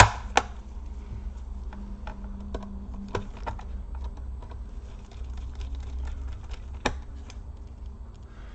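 Sparse clicks and taps of hands working on an Acer Aspire 5738 laptop, with a sharp click right at the start and a few more spread through, over a steady low hum.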